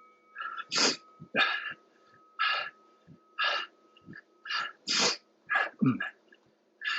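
A man's sharp, forceful exhalations during a bodyweight cardio exercise, about one a second, some in quick pairs.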